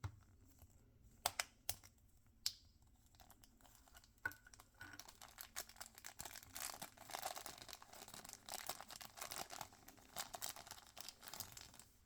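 Toy packaging being opened by hand: a few sharp clicks, then from about five seconds in a long stretch of crinkling and tearing of plastic or foil wrapping.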